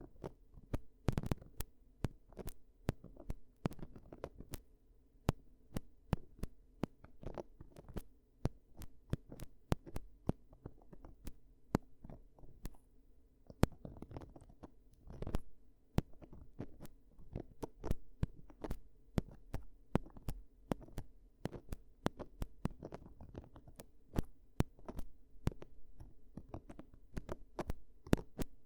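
Close-miked ear-cleaning sounds: a tool scratching and tapping at the ear, giving many irregular sharp clicks and crackles, several a second, over a steady low hum.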